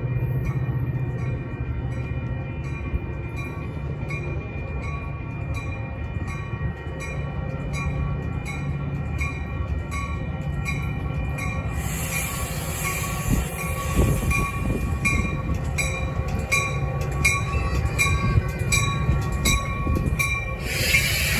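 A train passing, with a steady low rumble, a fast, even ticking and a steady high ringing over it. A louder hiss joins about twelve seconds in and swells again near the end.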